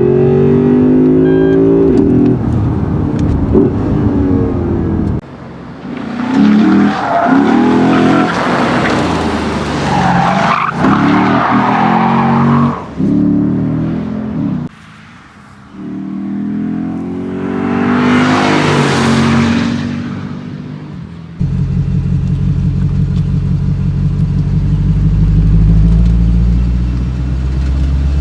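Lexus IS-F's 5.0-litre V8 revving up and down hard while its rear tyres squeal in drifts, in several abruptly cut stretches. After the last cut, about three quarters of the way in, the V8 runs at a steady low rumble.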